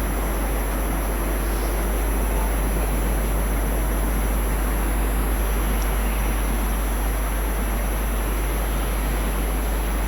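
Steady, unchanging noise with a deep low rumble and no distinct events: outdoor background noise, typical of wind on the microphone.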